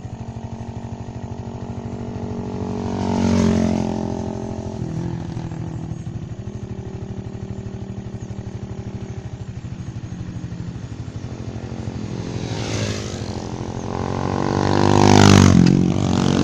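Motorcycle engine running steadily. Something louder passes by about three and a half seconds in, and a second, louder pass comes near the end.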